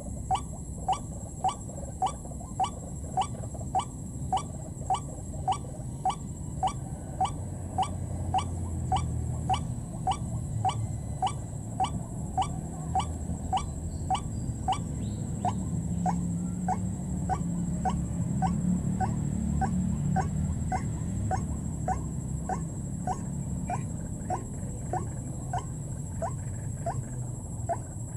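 White-breasted waterhen call: a long, even series of short rising notes, about two a second, running without a break. A low rumble swells under it through the middle.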